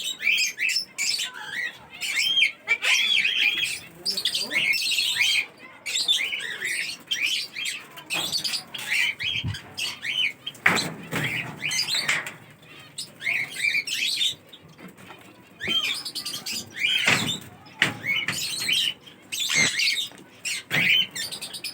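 Caged parrots and other small birds calling together: a dense run of short chirps, with loud harsh squawks now and then.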